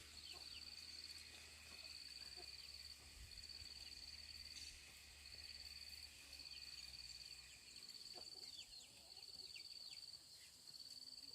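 Faint forest ambience: an insect, cricket-like, gives high trills repeating about once a second, with a few short, faint chirps over it.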